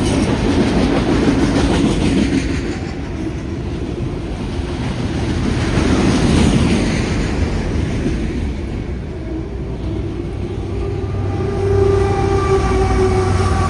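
CSX freight train of mostly autorack cars rolling past, its wheels clacking over the rail joints with a continuous rumble that swells and eases. About twelve seconds in, a steady humming tone joins the rumble.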